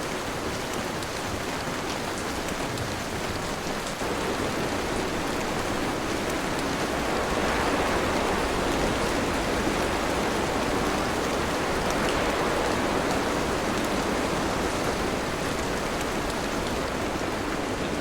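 Steady rain falling, growing a little louder about four seconds in.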